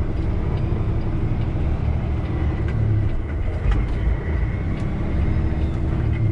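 Semi truck's engine and road noise heard from inside the cab while driving: a steady low drone with a few light clicks.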